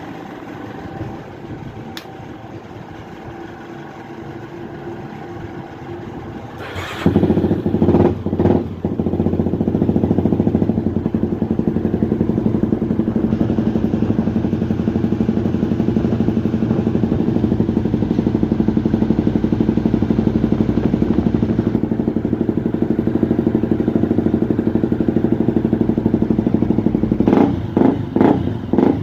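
Honda Tornado 250 single-cylinder four-stroke motorcycle engine starting about seven seconds in, catching with a couple of quick revs, then idling steadily. Near the end the throttle is blipped several times in a row.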